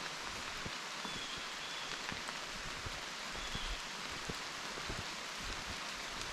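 Steady rain falling, with many individual drops ticking sharply at irregular moments.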